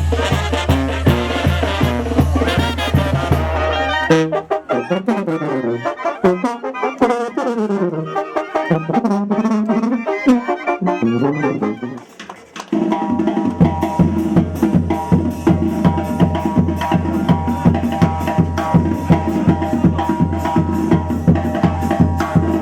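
Brass band music with drums. It changes abruptly about four seconds in, and again near twelve seconds, where it drops out briefly before held notes over a steady beat resume.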